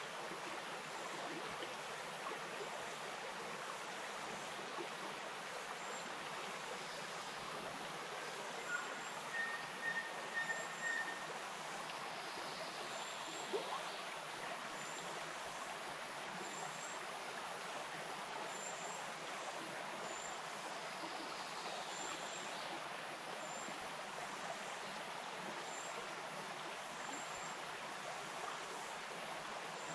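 Bush stream flowing with a steady, even rush of water. Faint, very high short chirps repeat every second or two, and a brief run of repeated higher notes comes about a third of the way in.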